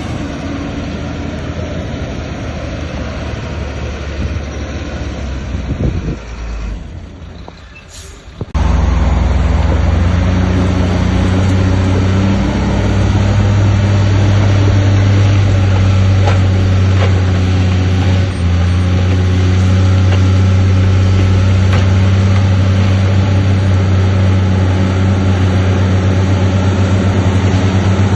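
Heavy diesel earthmoving machinery running. The sound drops away for about two seconds around seven seconds in, then a louder, steady engine with a deep hum runs on.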